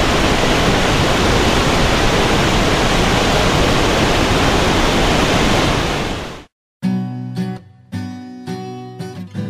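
Loud, steady rushing noise that cuts off suddenly about six and a half seconds in. Strummed acoustic guitar music starts a moment later.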